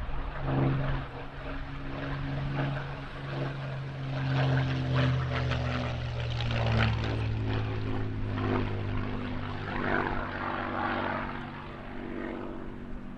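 Rolls-Royce Merlin V12 engine of a Second World War fighter flying a display pass. The propeller-driven engine note swells about four seconds in, then eases off as the aircraft moves away.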